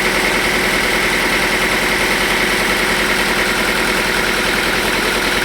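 Sawmill machinery running steadily, an even engine-like drone with a steady high whine over it.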